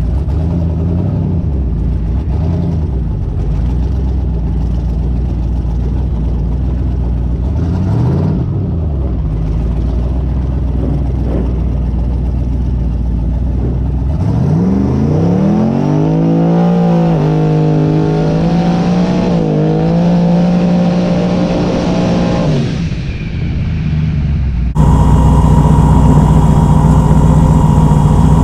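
Twin-turbo 5.3 LS V8 drag car engine running at a steady low idle, with a short rev blip about eight seconds in. It then revs up and holds a steady high rpm for about six seconds. After a brief dip the sound turns abruptly louder, and the revs climb again near the end.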